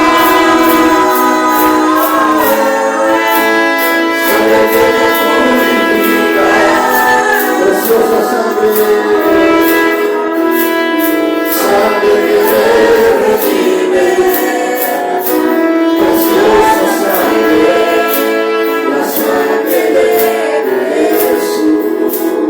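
Church worship music: sustained melody lines with singing over a steady beat of about two sharp percussion taps a second.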